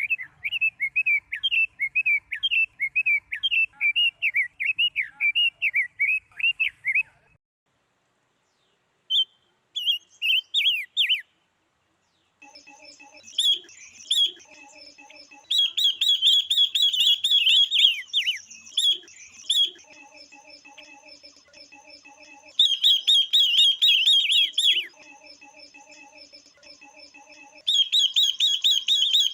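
Female silver-eared mesia and female red-billed leiothrix calling, the kind of female calls used to stir males into song. First comes a rapid warbling run of chirps lasting several seconds. After a short pause there are repeated bouts of dense, high chirping over a fainter, lower, evenly repeated piping.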